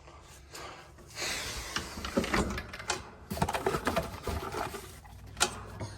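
Hands working on parts: rustling with irregular small knocks and clicks, and one sharp click about five and a half seconds in.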